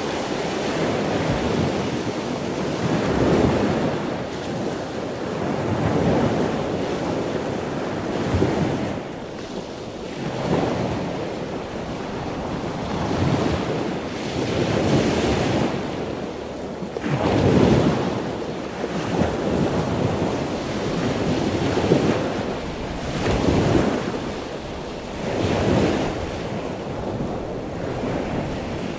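Rushing, wind-like air noise on the microphone, swelling and fading every two to three seconds.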